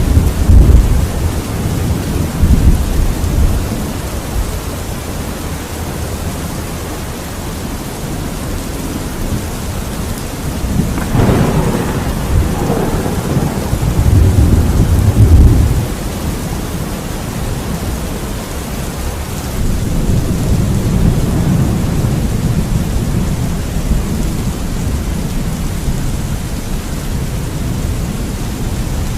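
Steady heavy rain under rolling thunder. The rumble at the start dies away, then a sharper crack comes a little before the middle and rolls into a deep rumble, and another swell of rumble builds in the last third.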